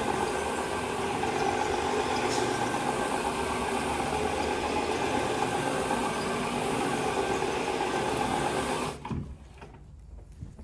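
Electric motor of a carpet-cleaning machine running steadily with a constant hum, then cutting off abruptly about nine seconds in.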